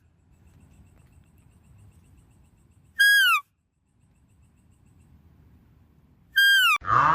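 A short whistled animal call, holding one pitch and then dropping at the end, repeated identically about three and a half seconds apart.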